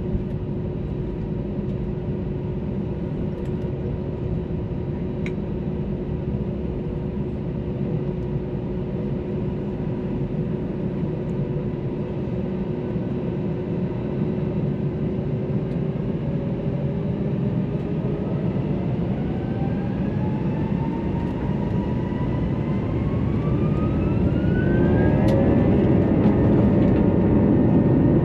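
Airbus A321's IAE V2500 turbofan engines heard from inside the cabin: a steady whine over a low rumble, then from about sixteen seconds in the engines spool up, the whine rising in pitch and getting louder as takeoff thrust is set.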